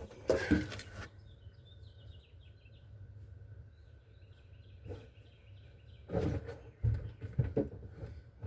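Short knocks and clatter from hands and tools working on the car in the first second, and again for a couple of seconds near the end. In the quiet between, birds chirp faintly in short runs over a low hum.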